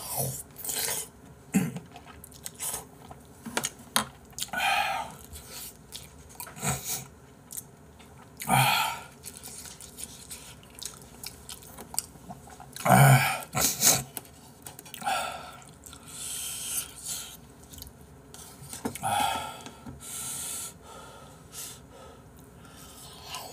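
A man eating braised chicken close to the microphone: wet chewing and mouth noises with scattered short clicks, and a few louder breathy mouth sounds, the loudest about 13 seconds in.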